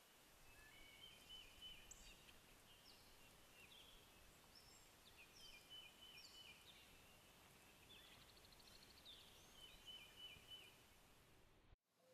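Songbirds chirping faintly, with many short high notes and a brief rapid trill, over a soft outdoor hiss.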